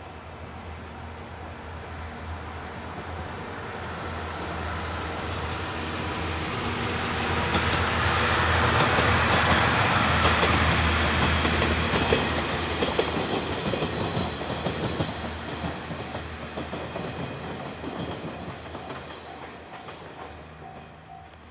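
A passenger train passing at speed: its noise builds for about ten seconds, peaks, then fades away, with the wheels clacking over rail joints as the cars go by.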